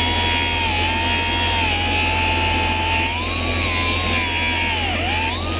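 A machine running steadily, with a whine that holds near one pitch, drifts up and down, and dips sharply near the end.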